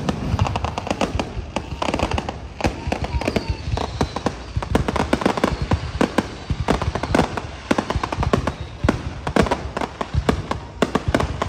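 Aerial fireworks bursting in a dense barrage: sharp bangs and crackles several times a second, with no pause.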